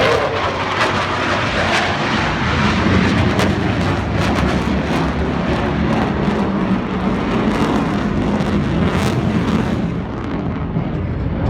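Military aircraft flying at an air display: a loud, steady engine roar that eases slightly near the end.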